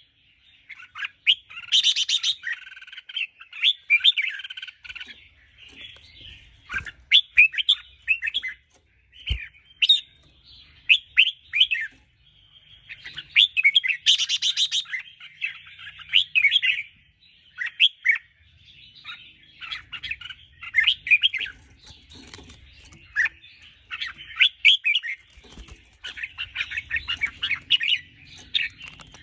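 Red-whiskered bulbul singing: short quick chirpy whistled phrases, one after another with brief gaps. Louder, harsher phrases come about two seconds in and again about halfway through.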